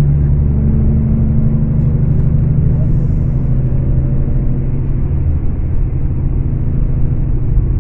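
Diesel engine of a Scania K410 coach running steadily under way, a deep even drone.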